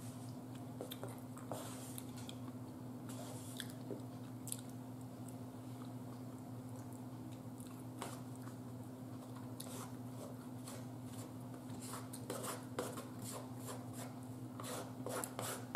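Close-up eating sounds: chewing baked chicken, with scattered small clicks of a fork against a plate that come thicker near the end. A steady low hum runs underneath.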